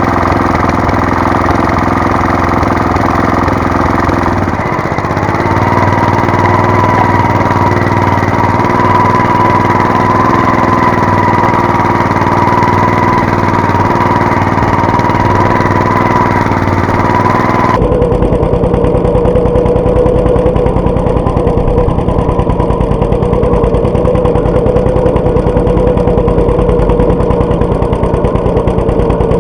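Walk-behind tractor engine running steadily and loudly, with a brief dip in speed about four seconds in. Its sound changes abruptly about eighteen seconds in, with a steady whining tone running over the engine throughout.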